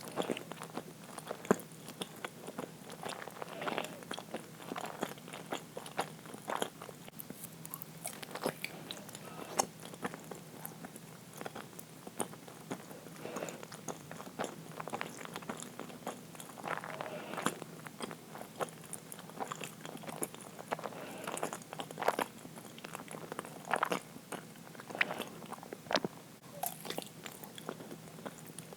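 Close-miked chewing of uiro, a soft, sticky steamed rice-flour sweet: irregular mouth clicks and smacks of biting and chewing.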